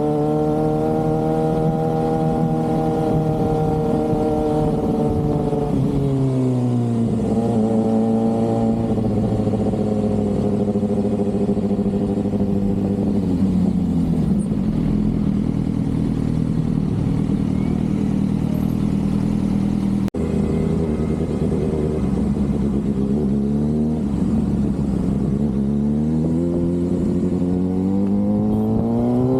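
Sport motorcycle engine heard from the rider's position: it holds steady revs, drops off about six seconds in and settles to a low, even run, then revs up again near the end.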